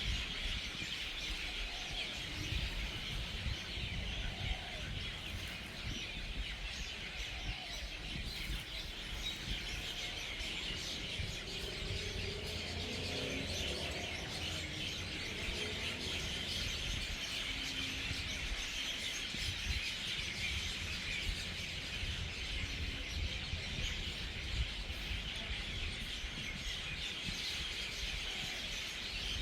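A large flock of birds chattering and chirping nonstop as they gather to roost for the night, a dense wall of overlapping calls, with a low rumble underneath.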